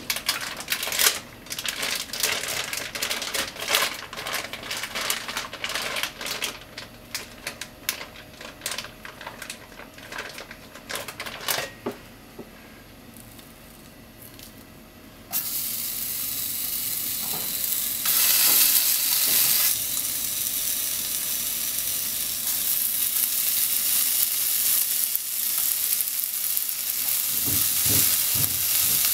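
Irregular clicks and clatter for about twelve seconds, then a short lull. About fifteen seconds in, a steady frying sizzle starts suddenly and keeps going as pieces of sliced ham are laid in the hot nonstick frying pan, swelling briefly a few seconds later.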